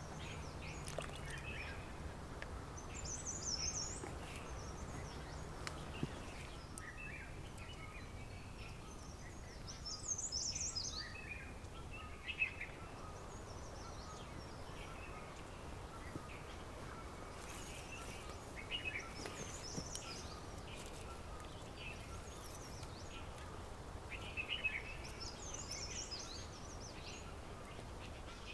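Wild birds calling in short chirping phrases every few seconds, some high and some lower, over a steady low background rumble, with a few sharp clicks.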